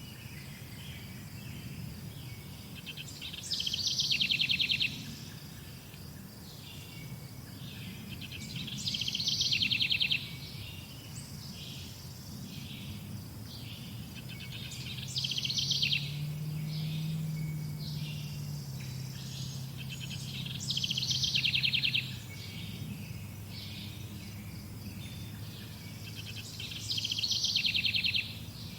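A songbird repeating the same short trilled song phrase five times, about every five to six seconds, over a steady low background rumble. A faint low drone comes in for several seconds in the middle.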